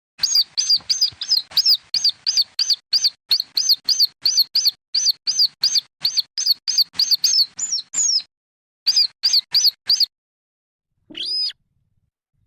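Chicks of the weris or sintar, a field and paddy rail, calling in a fast run of short, high, arched peeps, about three a second, broken once by a short gap. The run stops about ten seconds in, and one longer, lower call follows.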